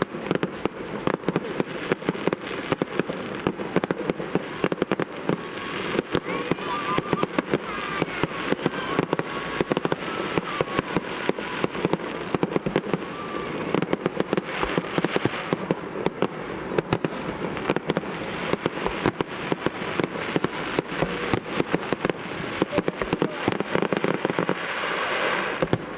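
Aerial fireworks display: a dense barrage of shell bursts, many bangs a second with crackling.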